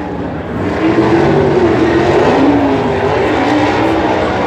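Several wingless sprint car engines racing, their pitch rising and falling as they accelerate and lift around the track.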